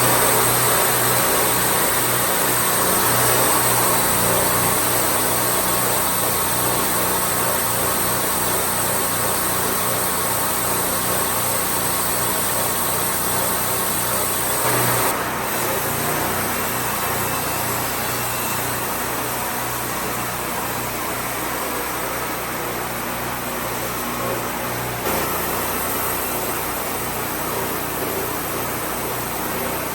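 Wood-Mizer portable sawmill's engine running steadily, its sound shifting abruptly about halfway through and again near the end.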